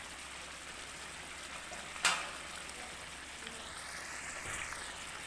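Chicken pieces with onion and freshly added garlic paste sizzling in butter and mustard oil in a kadai, a steady hiss. One sharp clink about two seconds in.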